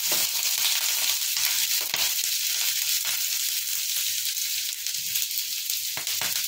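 Chopped garlic, slit green chillies and ginger sizzling in hot oil in a non-stick pan on high heat, a steady hiss with a few brief knocks.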